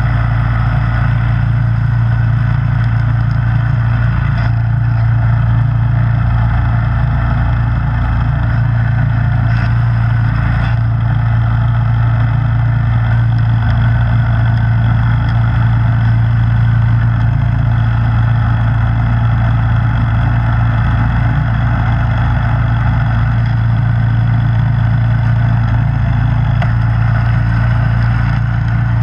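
Snowblower engine running steadily at one even speed, a constant loud drone with no revving or change in pitch.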